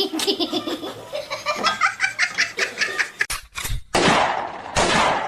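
A person laughing hard in quick rhythmic bursts, followed near the end by a few long breathy noises.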